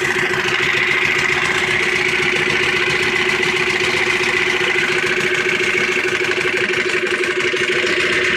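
Yamaha 15 hp outboard motor running at a steady, unchanging speed.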